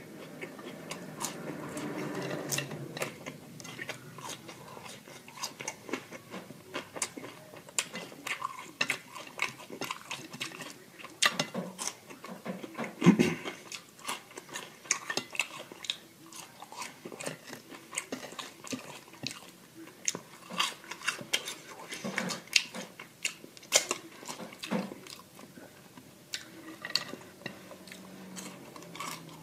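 Close-miked eating: steady chewing and biting of fast food, with many small wet mouth clicks. There is one louder bump about 13 seconds in.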